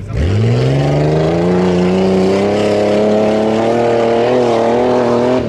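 Tuff-truck engine revving hard from low revs, its pitch climbing steeply over about two seconds, then held at high revs under full throttle with slight wavers.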